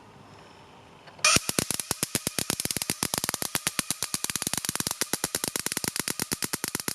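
Gas turbine semiconductor igniter plugs sparking repeatedly from a DC exciter under continuous power, a rapid even train of sharp snaps at about ten a second that starts a little over a second in. Each snap is the exciter's capacitor discharging across the plugs.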